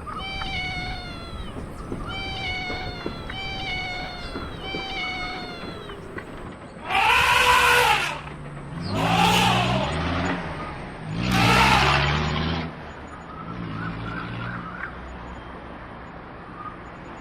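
Cat meowing: four short, falling mews about a second apart, then three loud, long drawn-out meows that rise and fall in pitch, and a fainter one after them.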